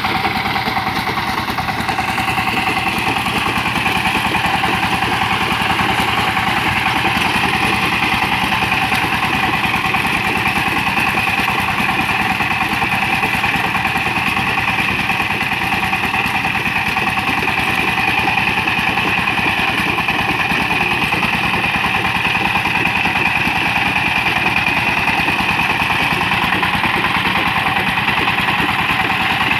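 Power tiller's small engine running steadily, with a fast, even chugging.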